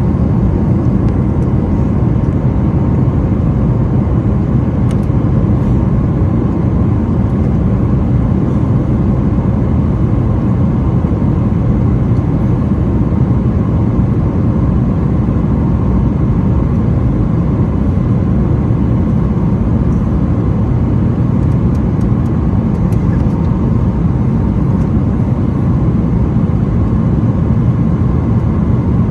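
Steady cabin noise aboard a Boeing 737-900ER: the constant low rumble of its CFM56-7B engines and the air rushing past the fuselage, with a faint steady hum above it.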